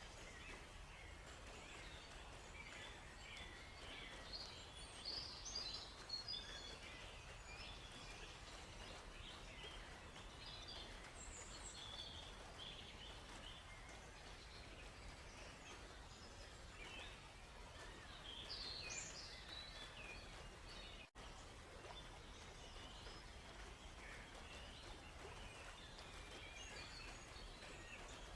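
Forest birds chirping: many short, high calls overlapping, busiest from about four to seven seconds in and again around nineteen seconds. Under them runs a faint, steady low rumble. The whole sound cuts out for an instant about three-quarters of the way through.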